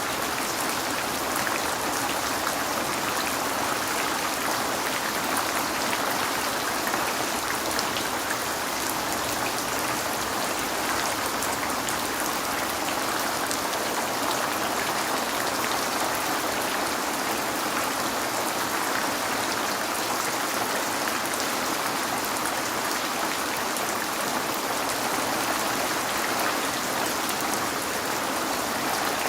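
Steady rain falling on a window, an even hiss with the fine patter of individual drops.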